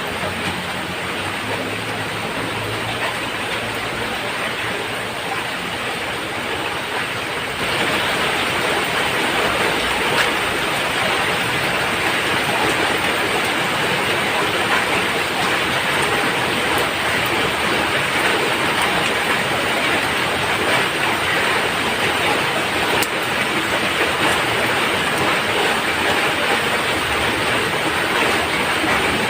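Steady rain falling on a roof, a dense even hiss with no separate drops standing out. It turns suddenly louder and brighter about a quarter of the way in, then holds steady.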